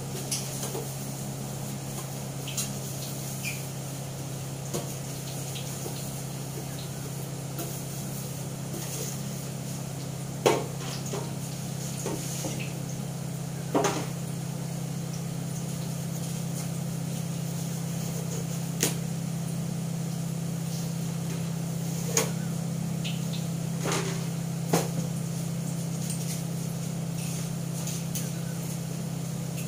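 Potato fritters frying in oil in a wok over a gas burner: a steady sizzling hiss over a steady low hum, broken by a few sharp knocks and clinks of kitchen utensils, the loudest about ten seconds in.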